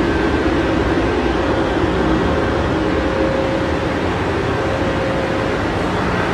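Steady hum and rush of a Haramain high-speed train standing at the station platform, with a faint held tone above it.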